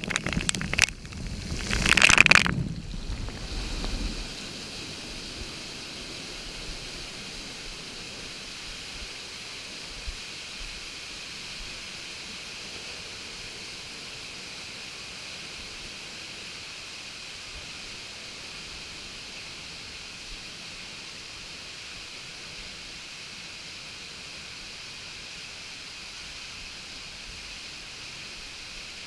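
Lazy-river water splashing close to the camera's microphone for the first couple of seconds, then a steady, even hiss of flowing water.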